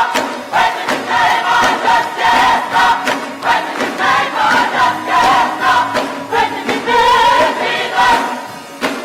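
Church choir singing a gospel song over a steady beat.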